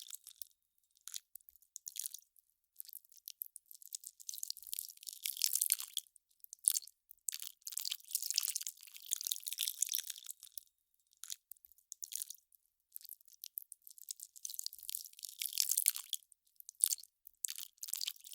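Melting ice crackling: irregular bursts of fine, crisp crackle and crunch, broken by short silent gaps.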